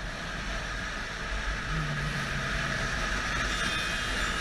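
Steady wind and road noise from a motorcycle riding along, with a low engine hum standing out briefly about two seconds in.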